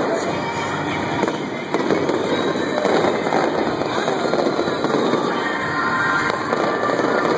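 Aerial fireworks bursting in a dense barrage: rapid, overlapping bangs and crackling from many shells at once, with a brief lull about a second and a half in before it builds again.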